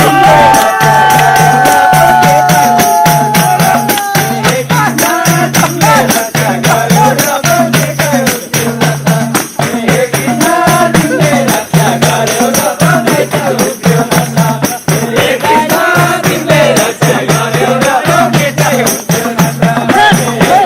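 Folk or devotional music with a fast, steady percussion beat and jingling rattle or tambourine, with voices singing over it; a long held note sounds in the first few seconds.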